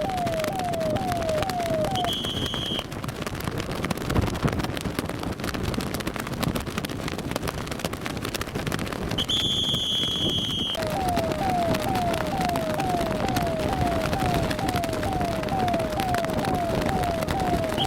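Police electronic siren sounding in quick repeated rising sweeps, about two a second. It stops about two seconds in and starts again near eleven seconds, over a constant noisy din. A steady, shrill whistle blows three times: briefly just after the siren stops, for a second or two around ten seconds, and again at the end.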